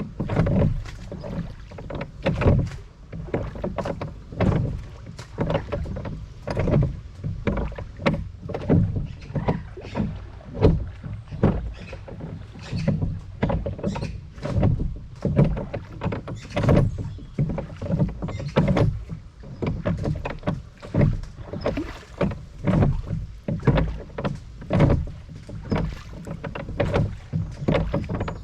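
Rowboat being rowed on a river: water splashing and slapping against the hull with the oar strokes, in short uneven splashes about one or two a second.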